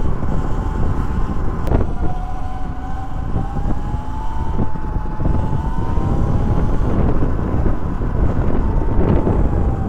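SUR-RON Light Bee X electric dirt bike's motor whining while being ridden, its pitch rising a little through the middle and falling toward the end, under heavy wind buffeting on the microphone.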